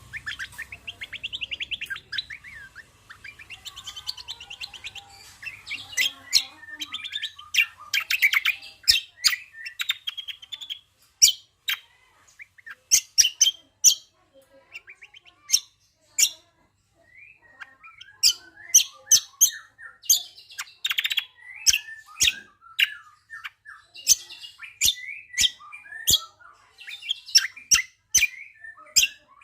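Cucak kombo (green magpie) song: a dense, high trilling run, then rapid sharp chirps and whistles in bursts with short pauses, as used for training songbirds.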